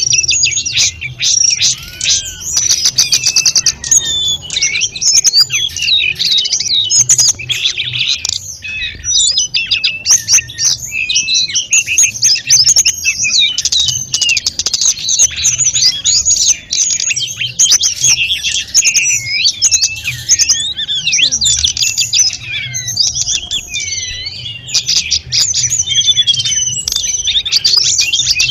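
Tledekan gunung (sulingan gunung) singing a continuous, fast, high-pitched chattering song packed with rapid chirps and trills, with no pause.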